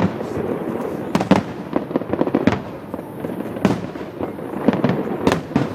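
Aerial fireworks bursting: a continuous run of bangs, several of them sharp and loud, over steady crackling.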